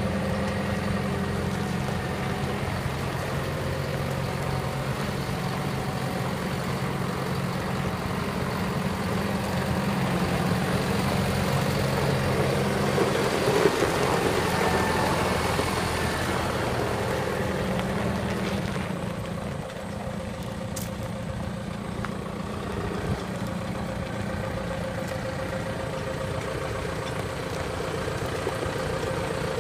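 John Deere 6430 tractor's diesel engine running at a steady idle, dropping slightly in level about two-thirds of the way through.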